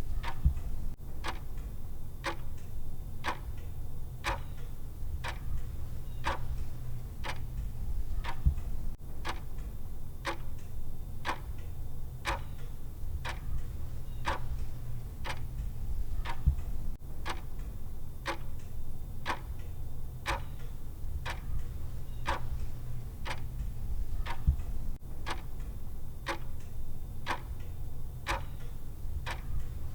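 Clock ticking sound effect: steady, even ticks about twice a second over a steady low hum.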